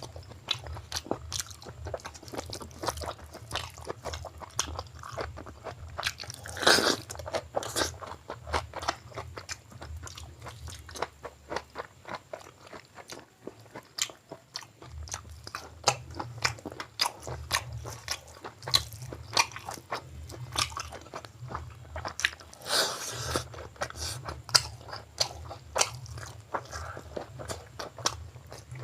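Close-up eating sounds of a person chewing chicken gizzard curry and mutton biryani: a rapid run of wet mouth clicks and crunchy bites. Twice there is a louder, brief burst of noise.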